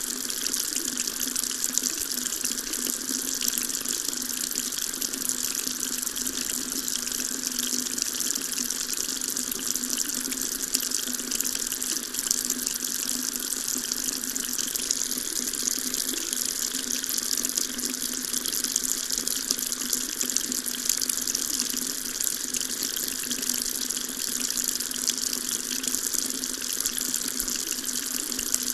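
Water tap running steadily, a continuous splashing stream into a sink, most of its sound hissing high up.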